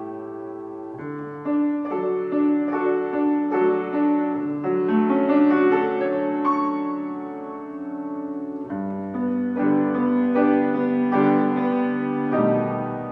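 Solo piano playing a slow, melodic piece, the notes held and ringing into each other. The music eases off to a held chord about eight seconds in, then a new phrase starts.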